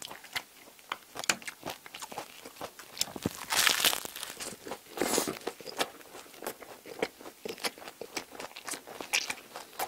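Close-miked biting and chewing of crisp baguette bread: a steady run of small crackling crunches, with louder crunches about three and a half and five seconds in.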